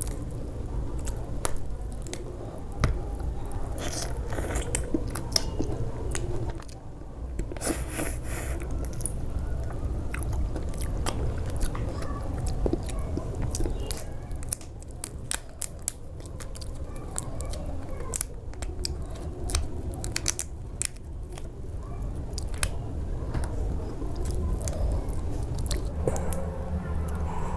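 A person chewing and biting food close to the microphone, with many short, sharp mouth clicks and crunches, and a louder rustling burst about eight seconds in.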